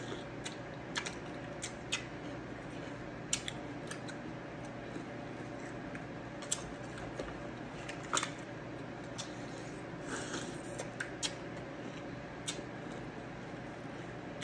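People eating milk-soaked frosted cereal: scattered sharp clicks and crunches, about a dozen, from spoons and chewing over a steady room hum.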